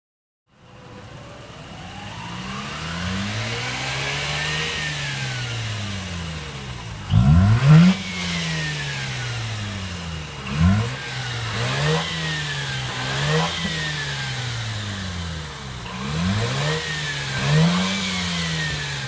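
Mazda RX-8's rebuilt two-rotor Renesis rotary engine, low on compression, being revved. It climbs slowly and falls back over the first few seconds, then gives a series of quick blips, the loudest about seven seconds in.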